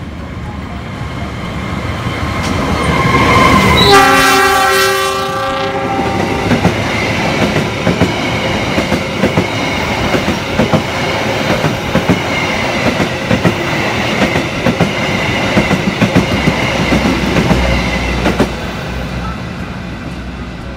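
Argo Wilis express train passing through the station at close range: noise builds and its horn sounds for about two seconds around four seconds in. Then the coaches' wheels clatter rapidly over the rail joints for about twelve seconds before fading away.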